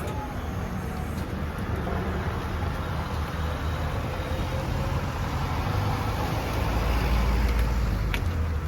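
Heavy transport truck's engine running with a steady low rumble, growing somewhat louder about six to eight seconds in.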